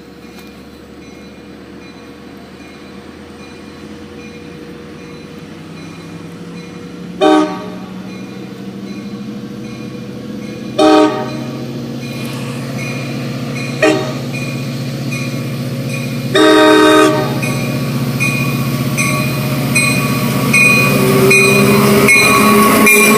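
Long Island Rail Road diesel train approaching, its rumble growing steadily louder. Its horn sounds the grade-crossing signal: two long blasts, a short one, then a longer final blast. A bell dings at a steady pace underneath.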